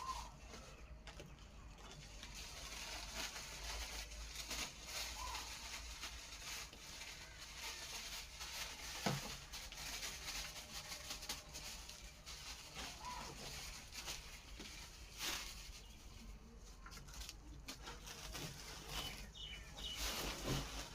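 Birds being fed: faint scattered flutters and light clicks, with a few short calls.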